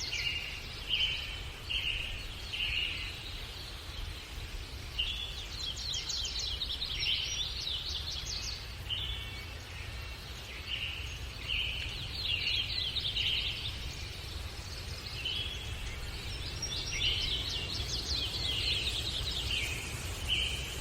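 A songbird singing in repeated phrases of quick chirps and trills, a new phrase every few seconds, over a steady low rumble.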